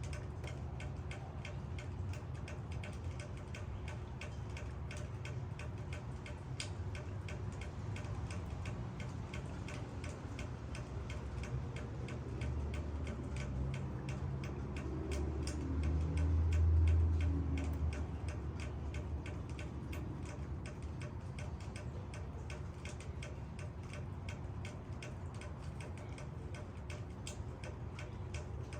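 Rain dripping onto leaves: a dense, irregular patter of sharp drops. A low rumble swells up and fades away in the middle.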